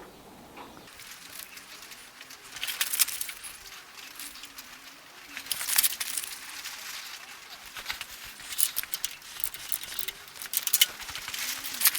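Aluminium foil crinkling as it is scrunched into small balls, in several separate bursts: the foil balls for a piston-to-cylinder-head clearance check.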